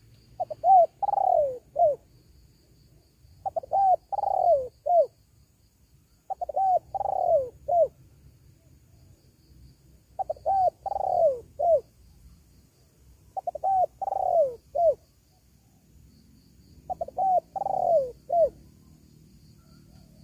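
Spotted dove cooing: six repeated phrases about every three seconds, each a couple of short notes, then a long falling coo and a short closing note.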